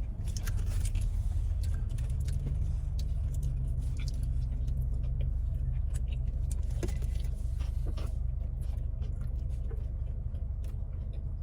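Steady low rumble inside a car cabin, with scattered light clicks and rustles of hands handling food packaging and a drink cup.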